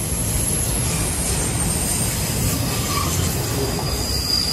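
Train rolling past: a steady low rumble of steel wheels on rail with thin, high-pitched wheel squeals, one very high near the start and a lower one near the end.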